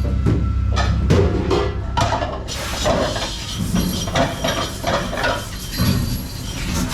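Dishes and utensils clinking and clattering in a quick run of irregular knocks, with background music fading out about a second in.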